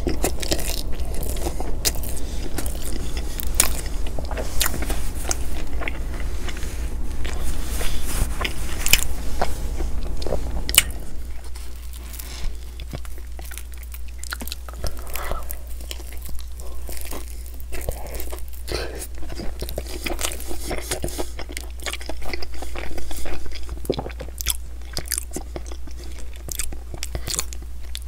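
Close-miked chewing and biting of pizza, with crisp crunches and mouth clicks over a steady low hum. It is louder for about the first ten seconds, then softer.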